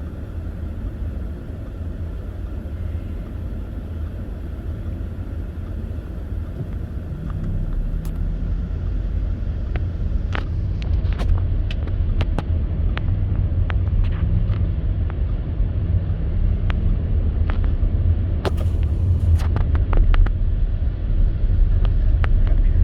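Car driving on a snowy, slushy road: a steady low rumble of engine and tyres that grows louder about a third of the way in, with scattered sharp clicks and ticks through the second half.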